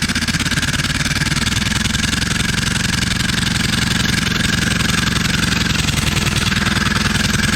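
Old engine converted to run on compressed air at about 80 psi, running fast and steadily, with rapid, even pulses.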